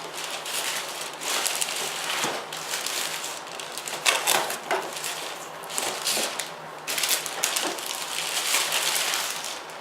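Packaging being handled and opened by hand: continuous crinkling and rustling of plastic and cardboard with many sharp crackles.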